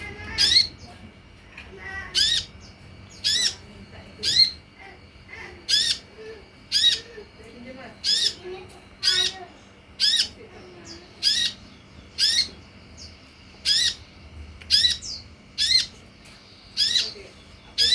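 A sunbird calling: short, sharp, high-pitched calls repeated about once a second, at a steady pace. This is the kind of call recording played to kept sunbirds to provoke them into answering and singing.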